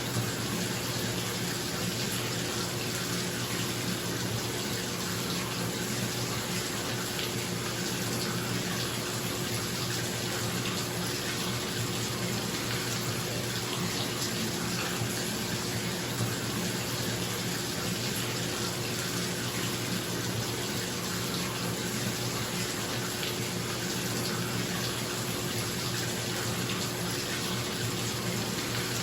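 Water running from a tap into a bathtub, a steady splashing hiss, with a bathroom exhaust fan humming underneath.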